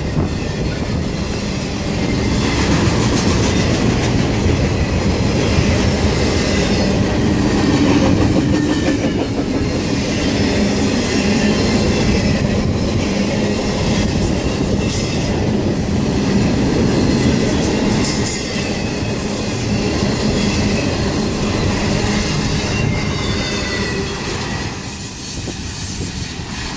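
Intermodal freight train cars rolling past, steel wheels running on the rail with a thin high wheel squeal over the steady noise. The sound drops off near the end as the last cars pass.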